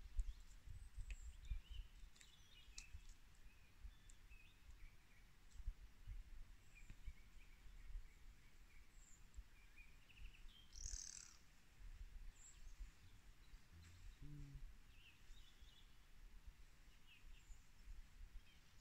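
Near-silent forest ambience with faint, scattered bird chirps and calls, one a little louder about halfway through, over a low rumble.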